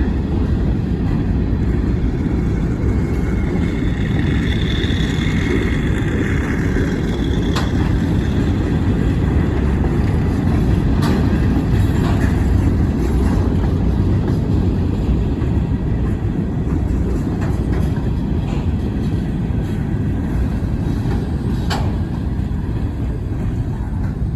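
Wheeling & Lake Erie freight train rolling past with a steady heavy rumble. A high squeal rises over it a few seconds in, and there are a few sharp clicks later on.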